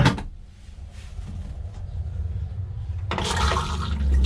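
A click, then a Thetford C200 cassette toilet's electric flush pump running with a low, building hum. About three seconds in, water starts rushing into the bowl: the flush is working again now that the corroded fuse has been replaced.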